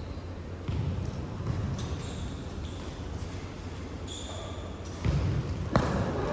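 A ball being kicked and bouncing on an indoor futsal court, with thuds about a second in and again near the end, and a sharp knock just after.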